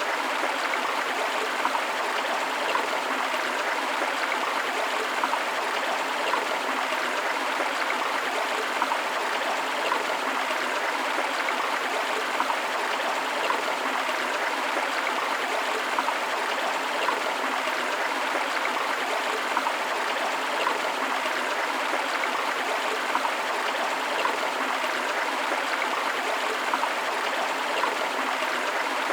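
A river flowing steadily, with many small splashes and gurgles along the way.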